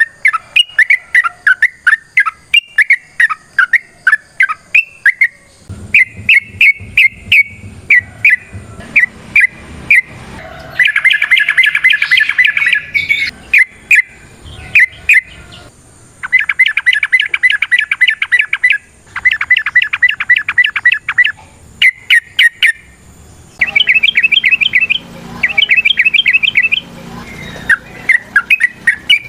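Sooty-headed bulbul (trucukan) singing: bursts of rapid chattering trills, each two to three seconds long, alternating with spaced single chirps.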